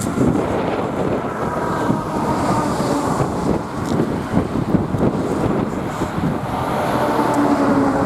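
Strong wind buffeting the microphone in gusts, with the faint drone of a Dash 8 Q400 turboprop's propellers beneath it.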